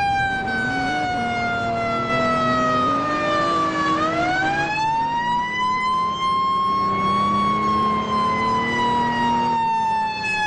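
Fire truck siren wailing: its pitch slides slowly down, swings back up about four seconds in, then falls again toward the end.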